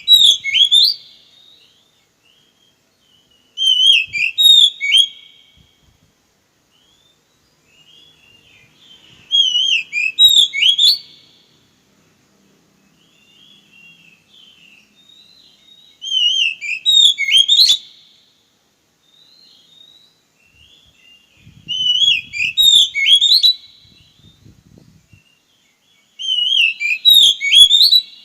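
Oriental magpie-robin singing: short, loud whistled phrases with quick up-and-down notes, repeated about every five to six seconds, with fainter twittering in between.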